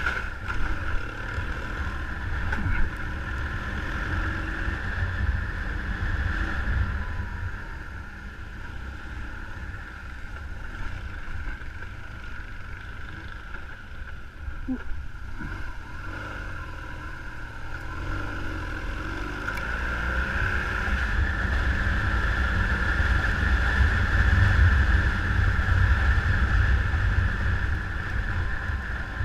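A motor running steadily under heavy low wind rumble, growing louder over the last third.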